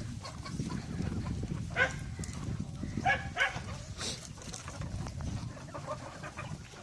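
Desi chickens calling: a few short, sharp squawks and clucks spaced across a few seconds, over a steady low rumble.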